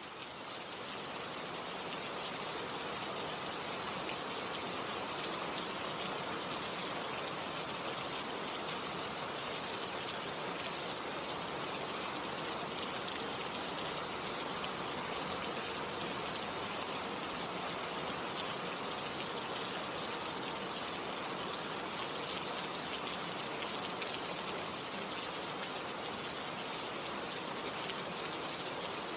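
Steady, dense rain falling, a continuous hiss full of fine droplet ticks, swelling in over the first couple of seconds and then holding even.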